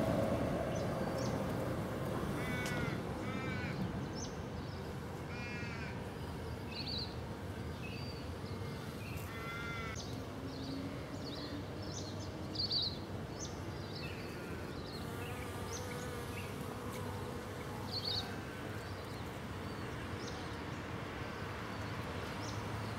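Birds calling outdoors: several loud calls with a curving, falling pitch come between about 2 and 10 seconds in, with short high chirps scattered throughout, over steady background noise. The rumble of a passing train fades out in the first few seconds.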